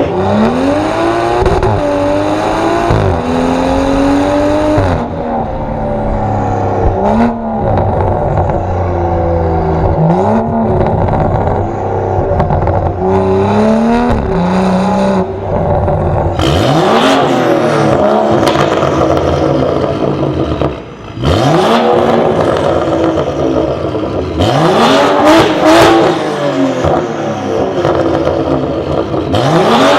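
Straight-piped BMW M135i's turbocharged 3-litre straight-six accelerating hard through the gears. Its pitch climbs again and again and drops sharply at each upshift, with a few sharp cracks from the exhaust between pulls.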